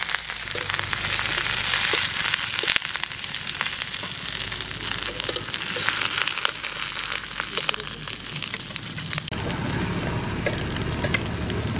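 Banana-leaf parcels of bhetki fish sizzling in shallow hot mustard oil in a metal wok, a steady hiss with many small crackles and pops. About nine seconds in the sizzle thins and a lower, duller noise takes over.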